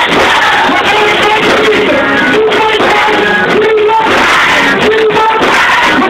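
Children singing a worship song together over loud band accompaniment, with held sung notes.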